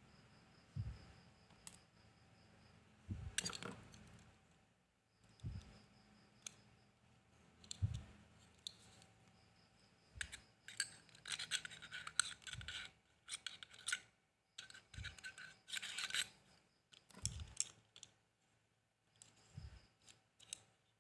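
Small tools working on a Zippo lighter's insert during a cam spring repair: scattered light taps and clicks, with bursts of scratching and scraping about halfway through and again a few seconds later.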